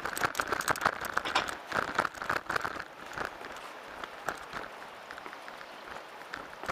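Mountain bike clattering and rattling over rough ground, heard through a handlebar-mounted camera: a dense run of knocks for the first three seconds, then sparser single knocks.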